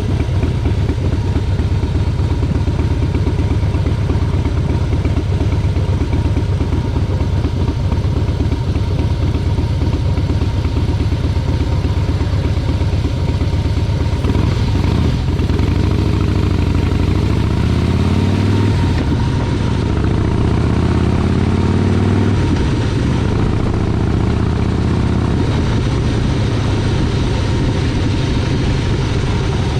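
Motorcycle engine running under way, loud and steady, its pitch rising and falling several times in the second half as it speeds up and slows.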